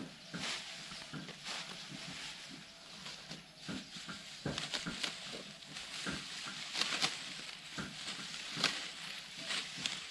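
Rice stalks being cut by hand with a sickle and gathered: irregular crisp rustling swishes, about one or two a second.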